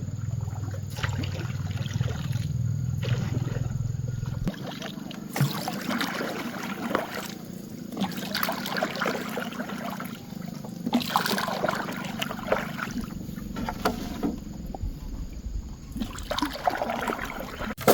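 Water splashing and sloshing in irregular spells with short lulls, over a low steady hum that stops about four and a half seconds in.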